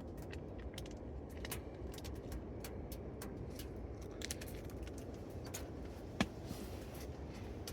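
Light metallic clicks and clinks of cookware being handled, scattered throughout, with one sharper knock about six seconds in, over a steady low rushing background.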